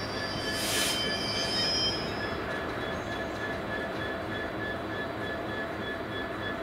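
Class 66 diesel locomotive with its two-stroke V12 engine running as it hauls a train of box wagons slowly round a curve, with a steady rumble of wheels on rail and a thin squeal of flanges against the curved rails that comes and goes. A brief louder, higher squeal about a second in.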